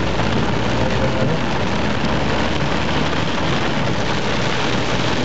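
Heavy rain beating steadily on a moving car's roof and windscreen, heard from inside the car, over the low rumble of its engine and tyres on the wet road.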